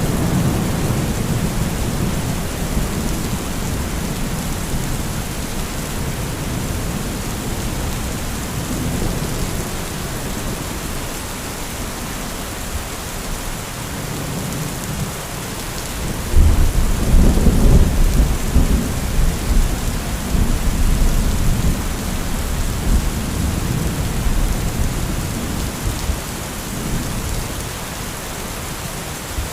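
Steady heavy rain with rolling thunder: a low rumble fades away over the first seconds, then about halfway through a loud clap of thunder breaks in and rumbles on, slowly dying away under the rain.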